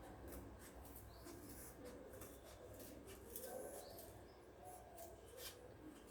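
Faint pencil strokes scratching on paper, a handful of short scratches spread across the few seconds, over a quiet background with faint low warbling sounds.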